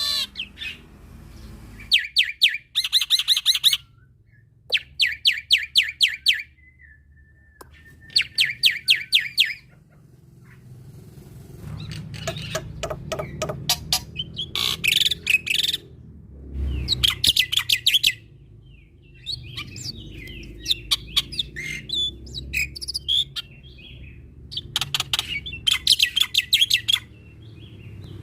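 Male black-winged myna (jalak putih) singing energetically. Bursts of rapid repeated harsh notes, about ten a second and each burst a second or two long, alternate with whistles, gliding notes and chatter over a faint low rumble.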